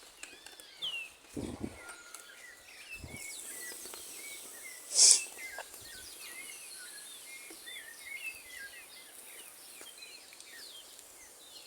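Many small birds chirping and trilling. Two dull thumps come in the first three seconds, and a loud, brief rushing noise about five seconds in.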